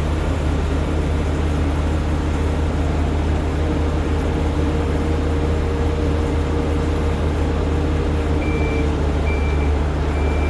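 Heavy diesel engine of a concrete mixer truck running steadily with a low drone. Near the end a backup alarm starts beeping, a little more than one beep a second.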